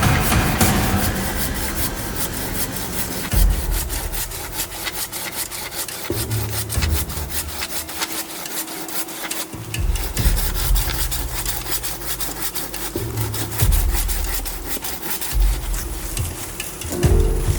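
Rapid, repeated scraping strokes on wood, broken by a few heavier low bumps every few seconds.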